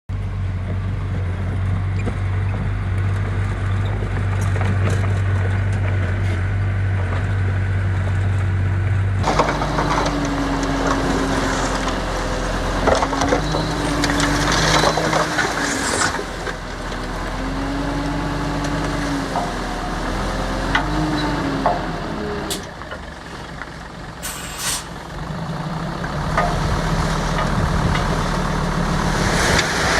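Diesel engines of heavy construction machinery running. A steady low idle holds for about nine seconds, then changes abruptly to an engine rising and falling in pitch under load, with scattered metallic clanks and knocks.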